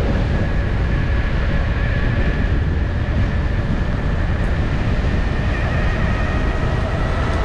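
Electric unicycle riding at speed: wind rushing over the microphone with the steady high whine of the wheel's hub motor.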